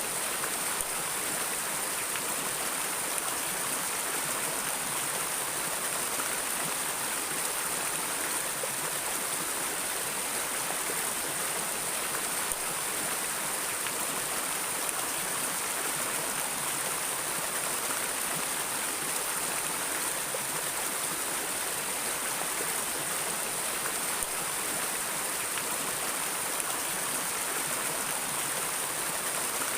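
Flowing river water running steadily: an even, unbroken rushing noise.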